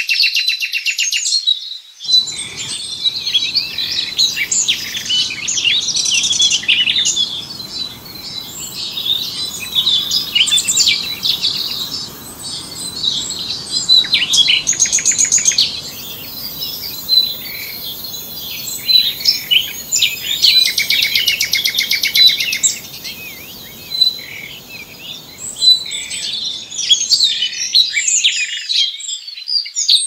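Several songbirds chirping and singing together, with many overlapping short calls and a few rapid trills, over a faint low background rumble.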